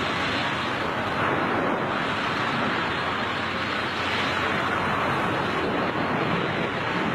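Steady rushing wind noise of skydivers in freefall, with no change in strength.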